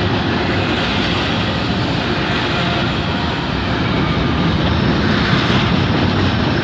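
Double-stack container cars of an intermodal freight train rolling past, a steady rumble of steel wheels on rail.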